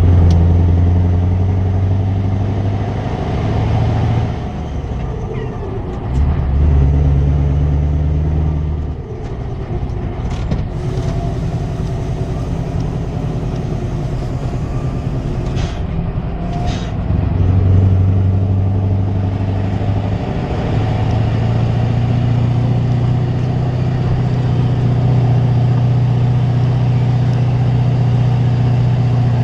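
Scania 164 480's V8 engine on a straight exhaust, running with a deep steady note that holds, then shifts to a new pitch several times, settling on a steady higher note for the last third. Two short bursts of noise come around the middle.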